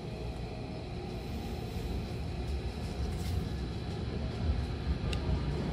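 Hankyu commuter train pulling away from a station, heard from inside the car: a low rumble of running gear and traction motors that grows gradually louder as the train gathers speed, with a light click about five seconds in.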